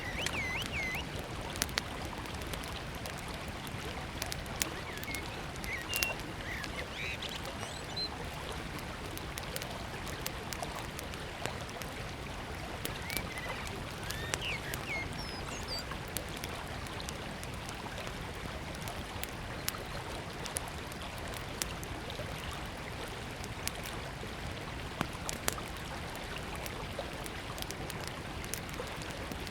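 Small wood campfire crackling with scattered sharp pops over the steady rush of a river. Birds chirp now and then, mostly in the first half.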